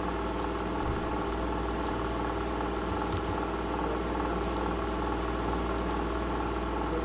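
Steady, even machine hum, like a fan or small motor running, with a few faint clicks.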